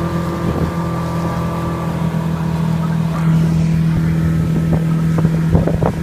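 Boat motor running steadily while the boat is underway, with a few short knocks near the end.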